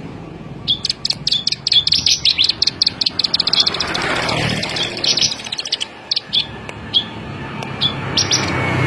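A ciblek sawah, a small prinia of rice fields, singing: rapid runs of short, high chirps in bursts with pauses between them. A brief rushing noise comes about four seconds in.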